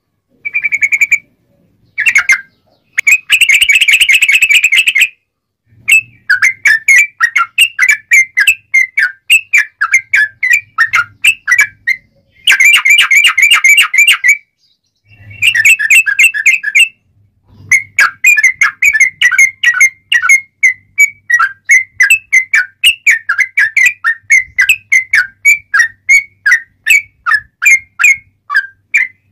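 Yellow-vented bulbul singing a sharp, clear, lively song. It alternates dense bursts of chatter with long runs of quick whistled notes, about three to four a second, broken by short pauses.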